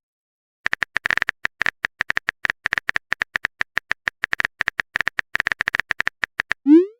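Typing sound effect: rapid, irregular keyboard clicks, starting just under a second in and stopping shortly before the end, where a rising whoosh begins.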